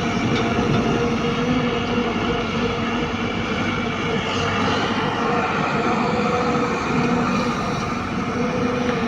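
Heavy diesel engine of earthmoving machinery running steadily, a constant drone with an even hum.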